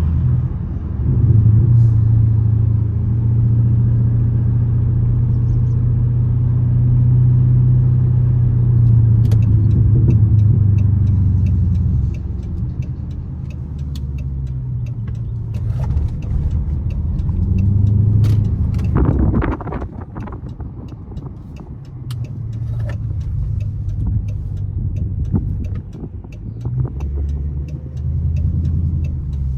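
Straight-piped 2012 Dodge Charger SRT8's 6.4-litre Hemi V8 exhaust droning steadily while driving. It drops off about twelve seconds in as the car eases off, swells briefly again a few seconds later, then runs lower, with scattered light clicks throughout.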